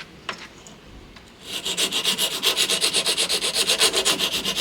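Hand file rasping back and forth in rapid, even strokes, several a second, enlarging the opening so a wider replacement switch will fit. It starts about a second and a half in, after a few light clicks.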